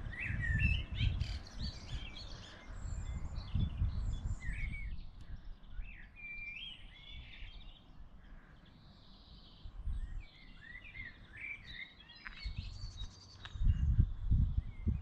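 Several songbirds chirping and singing, short phrases from different birds one after another. Under them a low, uneven rumble comes and goes and is loudest near the end.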